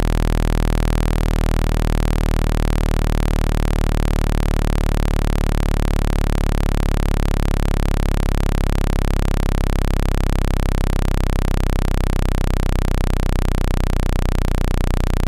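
Synthetic speaker-cleaning tone: a steady, loud, low-pitched electronic buzz with many overtones and a fast flutter, meant to vibrate water droplets and dust out of a phone speaker.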